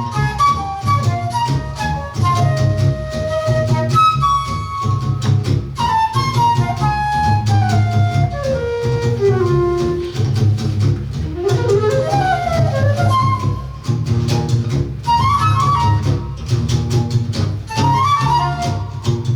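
Live instrumental music: a flute plays a quick melody of rising and falling runs over a plucked, rhythmic low accompaniment.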